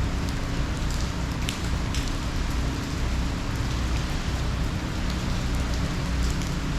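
Steady heavy hurricane rain, an even hiss with scattered sharp drop clicks and a low rumble underneath.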